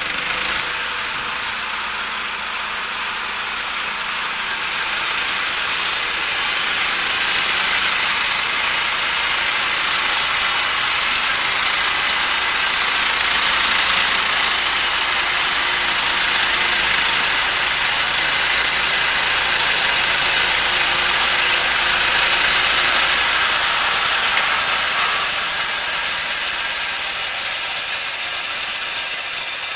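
Chainsaw engine running steadily, likely cutting through a log on a chainsaw mill, with slow rises and falls in level.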